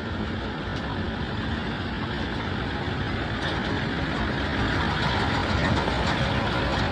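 Road traffic noise with a motor vehicle's engine running, growing slightly louder toward the end.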